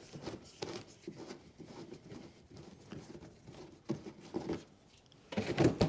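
Irregular light clicks and scrapes of a screwdriver and hands working at the plastic screw fixings of a car's wheel arch liner. A voice starts near the end.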